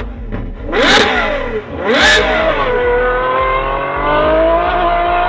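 Ferrari engine revved hard twice through its loud exhaust, each rev climbing and dropping back, then a long held engine note that slowly rises in pitch.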